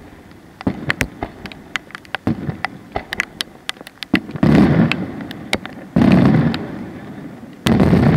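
Aerial fireworks shells bursting: a run of sharp pops, with three heavy booms that echo away, the first about four and a half seconds in, the next a second and a half later, the last near the end.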